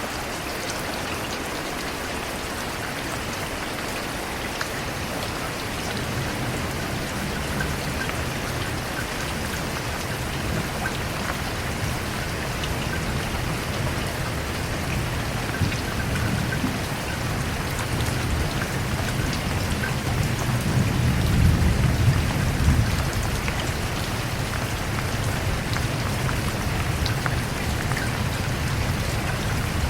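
Steady rainfall, with a low rumble of thunder that builds and is loudest about two-thirds of the way through.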